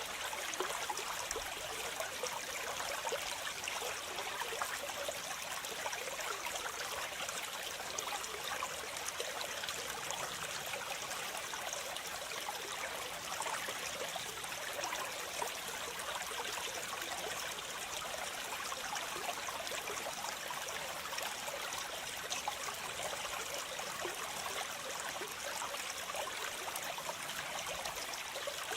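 Waterfall: water falling and splashing in a steady, unbroken rush, bright and hissy with little deep rumble.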